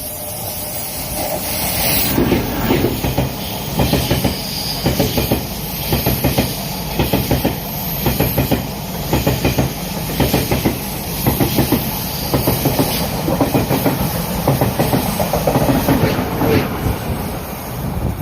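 A Taiwan Railway Tze-Chiang express train passing at speed through a station. Its wheels give a long, regular clickety-clack over the rail joints above a steady rushing noise, fading near the end.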